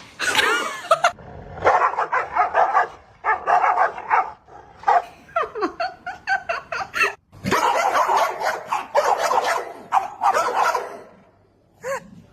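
A dog barking, yipping and whining in a long run of short calls, some with falling pitch, broken by brief pauses.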